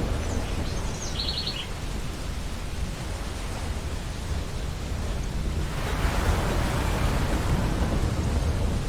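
Ocean surf washing on a beach, a steady rush that swells again as a wave breaks about six seconds in. A brief run of high bird chirps about a second in.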